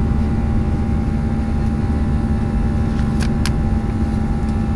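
Steady engine and airflow noise inside an airliner's cabin during the climb, with a constant low hum. Two light clicks come about three seconds in.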